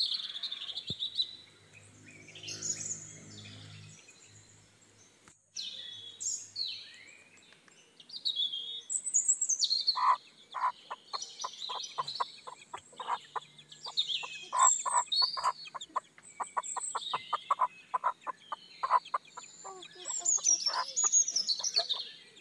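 Chicks peeping in short, high, falling chirps, joined about halfway through by a hen clucking quickly and steadily to them.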